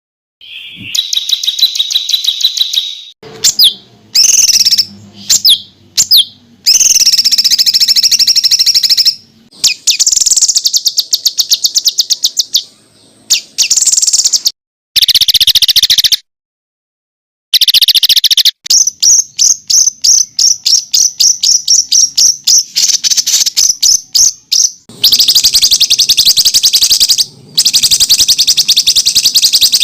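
Small songbirds giving rapid-fire runs of sharp, high repeated notes and trills, the dense 'tembakan' bursts used to train competition songbirds. The recording is made of short clips spliced together, with abrupt cuts and one brief full silence about two-thirds of the way through.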